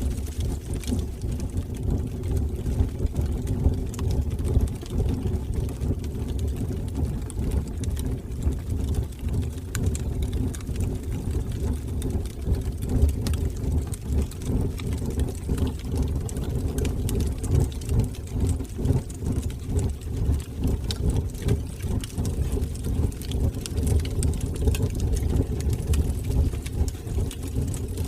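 Wood fire burning in a fireplace: a steady, flickering low rumble of flames with many small crackles and pops scattered throughout.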